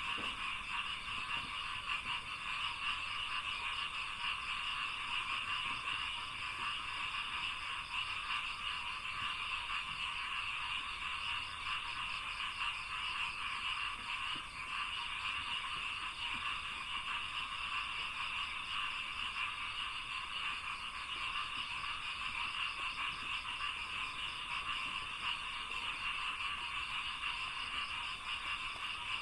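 Dense chorus of many frogs calling together, a steady mass of rapid croaks that never lets up.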